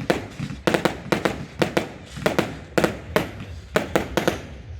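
Fireworks going off in a rapid, irregular string of sharp bangs, often in quick pairs, about three a second.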